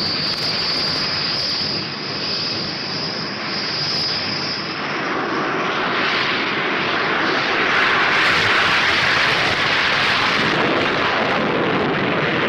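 Jet aircraft engine noise: a steady rush with a high whine that fades about five seconds in, after which the rush grows louder.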